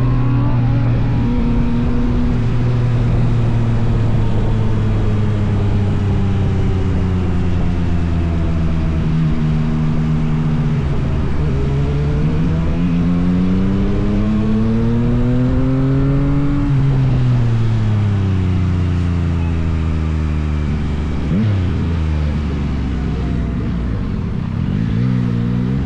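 Motorcycle engine running under way. Its pitch sinks slowly, rises over about five seconds to a peak and falls away again, with a short quick rev about three quarters through and another near the end.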